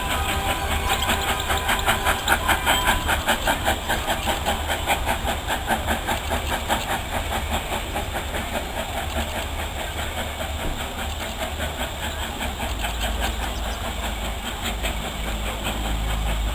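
Steam train running, with a fast, even rhythmic beat over a steady hiss and low rumble.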